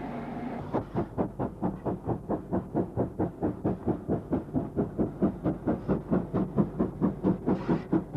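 Steam locomotive working with a quick, even rhythm of exhaust chuffs, about four to five a second, starting just under a second in.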